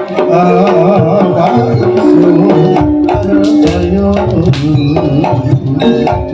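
Live jaranan band music: Javanese hand drums (kendang) play a busy rhythm under held melodic notes, in an instrumental break between sung lines.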